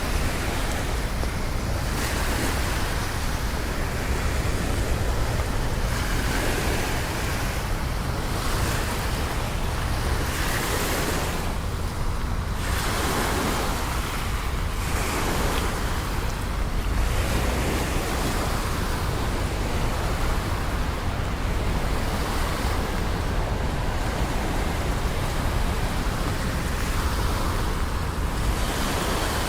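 Steady rain hiss mixed with the wash of city traffic on wet streets, swelling and easing every few seconds.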